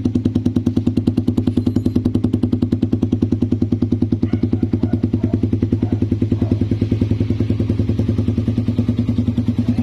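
Suzuki Raider 150's single-cylinder engine idling steadily through an SC Project aftermarket muffler on a custom-made elbow pipe, with a fast, even exhaust pulse.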